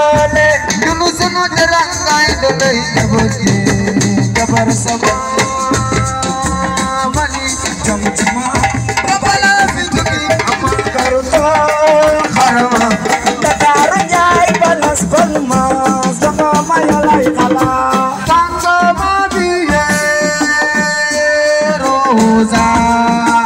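Senegalese assiko band music played loud and continuous: singing over drums and other percussion.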